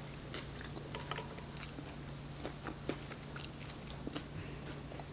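Close-up chewing of a shredded beef taco: a scatter of small, irregular mouth clicks and smacks over a steady low hum.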